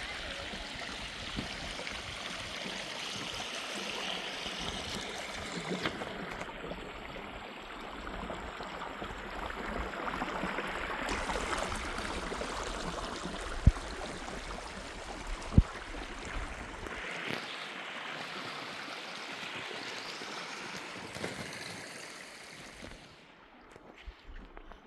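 Water running and splashing steadily, with two sharp knocks in the middle; the water sound drops away near the end.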